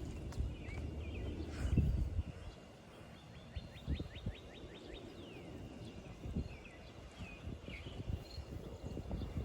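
Birds chirping, with a quick run of about ten short falling notes, then a few scattered calls. A low rumble under it swells about two seconds in and then fades.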